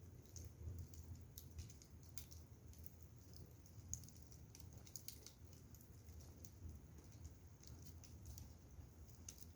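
Burning firewood crackling faintly, with small irregular snaps and pops, over a steady low hum.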